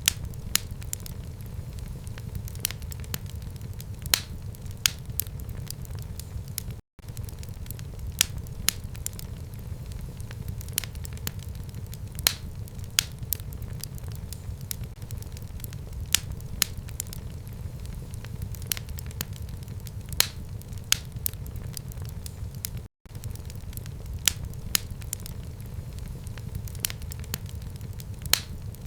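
Wood fire burning in a fireplace: a steady low rumble of the flames with frequent, irregular sharp crackles and pops. The sound cuts out for an instant twice, about seven seconds in and again about two-thirds of the way through.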